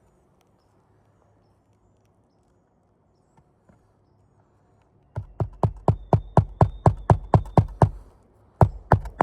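Rapid, even hammer strikes, about five a second, starting a little over halfway through, with a short break near the end before the strikes resume. Typical of nailing down a replacement roof shingle.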